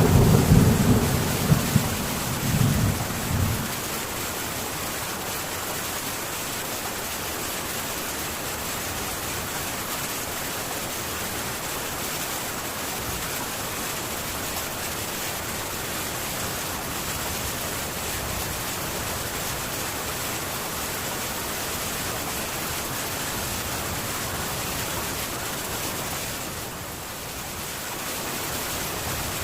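Heavy rain falling on a metal tin roof, a steady hiss, with a low rumble of thunder dying away in the first few seconds. The rain eases slightly for a moment near the end.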